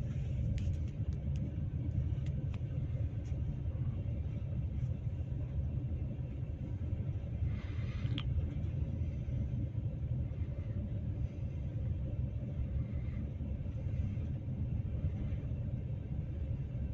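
Steady low rumble of a moving passenger train heard from inside the carriage, with a few faint clicks in the first few seconds.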